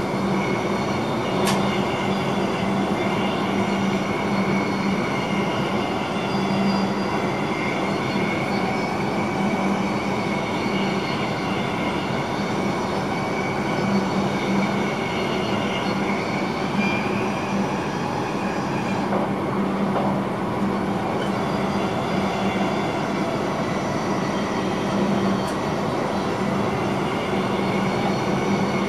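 Steady running noise of an NS Intercity train heard inside the driver's cab at speed: wheel-on-rail rumble with a steady hum and a faint whine, and a couple of sharp clicks.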